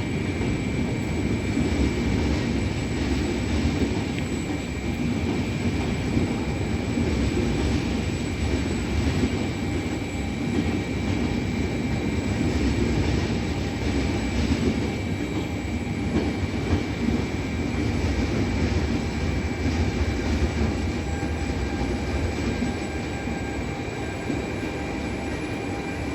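Train at a railway station, a steady rumble with a few faint steady high tones over it.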